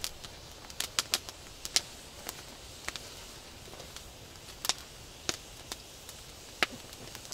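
Scattered sharp clicks and light knocks, about a dozen at irregular times, from camping gear being handled while a camp stove is set up.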